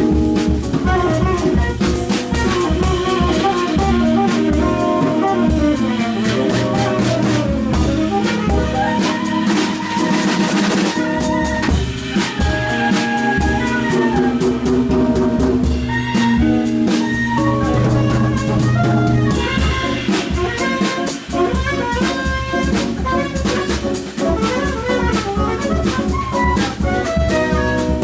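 Live jazz played by a tenor saxophone, guitar and drum kit, with busy drumming under a melodic line.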